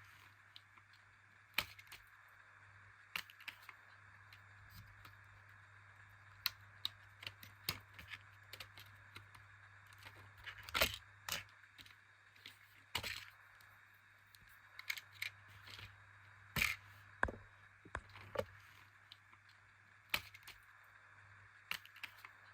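Plastic Lego pieces clicking, tapping and scraping as they are handled, in irregular sharp clicks with a few louder clacks, over a steady low hum.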